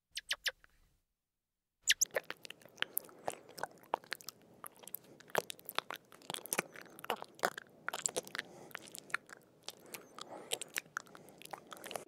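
Irregular crunching clicks, like an animal chewing, coming several times a second after a brief pause near the start.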